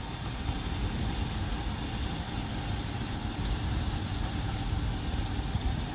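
A vehicle engine running steadily, a low even rumble with no other distinct events.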